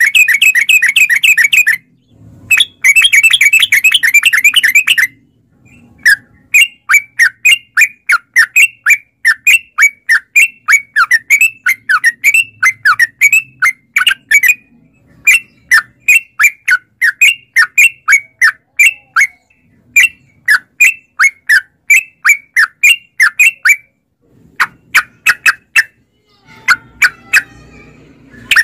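Yellow-vented bulbul (trucukan) singing: two bursts of fast chattering song, then a long run of quick falling notes, about three a second, for some eighteen seconds, with softer calls near the end.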